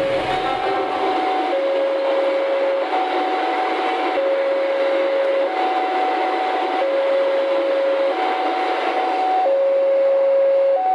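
Passenger train coaches rushing past at speed, a steady roar of wheels on rail. Over it, the level-crossing warning alarm alternates between two tones, high and low, each held for just over a second.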